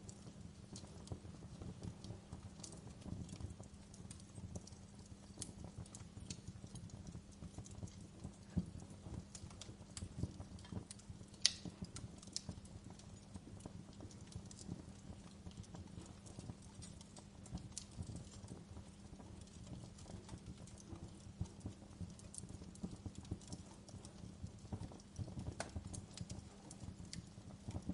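Wood fire burning in a fireplace: a steady low rumble of flames with irregular crackles and snaps, one sharper pop about eleven seconds in.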